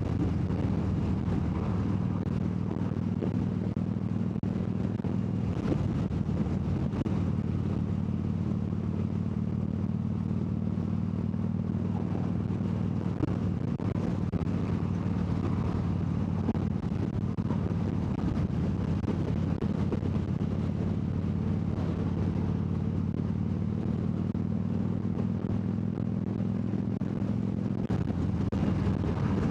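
2014 Harley-Davidson Dyna Wide Glide's air-cooled 103 V-twin running steadily under way at a constant speed, its note shifting briefly near the end.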